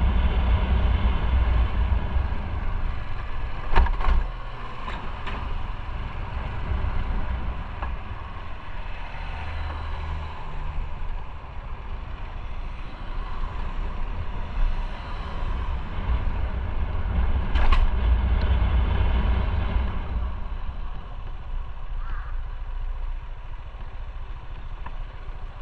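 Motorcycle running on the road, engine rumble mixed with wind and road noise, with two sharp knocks about four seconds in and again past the middle.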